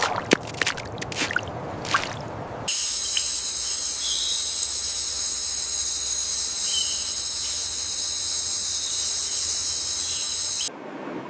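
Water trickling and splashing, then about three seconds in a steady, high-pitched insect chorus that cuts off sharply near the end.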